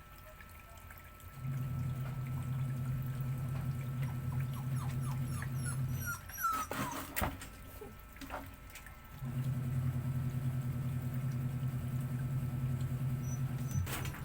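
A steady low motor hum runs for about four to five seconds, stops, and starts again for another four to five seconds, like a washing machine running in spells. Between the spells a puppy whimpers with thin high squeaks, and again near the end.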